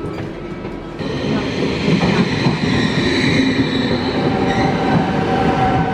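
Train running, with rumbling rail noise that gets louder about a second in and a steady high whine over it.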